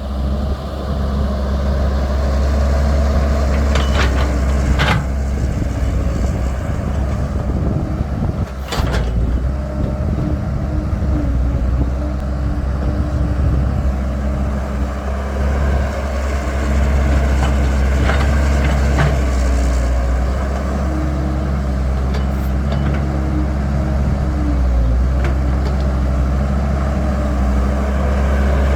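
Caterpillar 312 excavator's diesel engine running steadily under working load, with sharp knocks now and then as the bucket digs and dumps soil into a truck.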